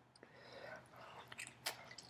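Close-up sounds of a person eating fast: chewing, with soft mouth noise and several sharp wet clicks in the second half, the loudest near the end.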